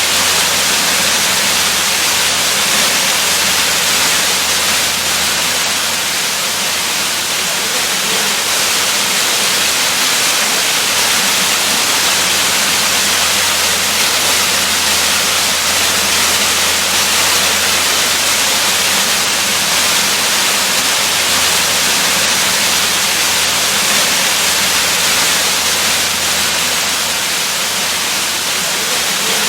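Waterfall: a steady, unbroken rush of falling water, heavy in the hiss with little low rumble.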